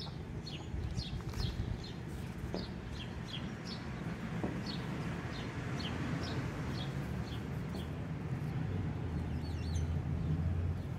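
Birds chirping: quick, high, falling chirps, several a second, thinning out after about seven seconds and returning briefly near the end, over a low steady rumble.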